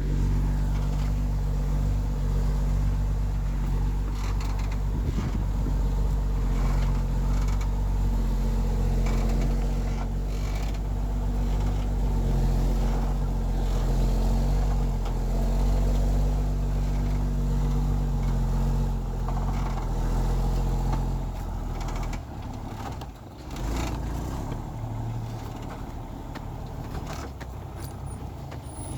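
Heavy timber truck's engine running steadily, then dropping to a lower, quieter note about two-thirds of the way through, with a few knocks and creaks.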